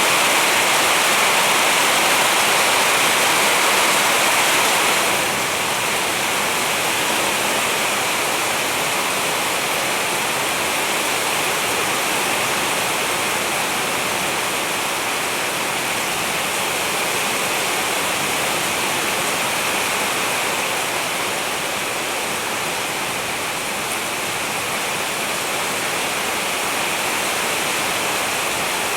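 Heavy rain falling in a steady downpour, an even hiss that drops a little in level about five seconds in.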